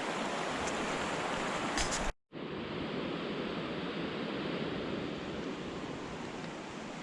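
Steady rush of a rain-swollen creek running high. A brief gap about two seconds in, after which the sound is duller.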